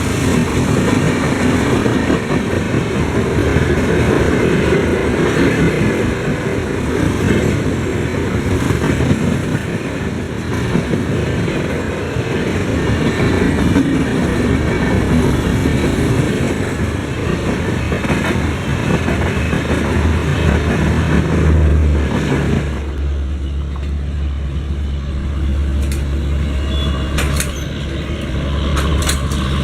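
Express passenger train rolling past, a steady rumble and clatter of coaches on the rails that cuts off abruptly about 23 seconds in as the train clears, leaving a low steady hum with a few clicks.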